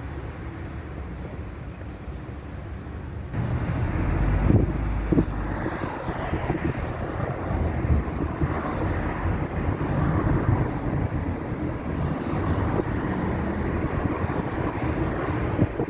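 Steady vehicle and road noise with wind on the microphone. It gets louder about three seconds in, and a few knocks follow a second or two later.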